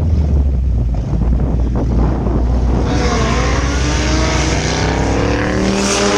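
Drag racing cars at the start line, one of them a T-bucket with a blown small-block Mopar (471 supercharger): a steady low engine rumble, then about halfway through a loud launch, with the engine note climbing in pitch over a rush of noise as the cars pull away down the strip.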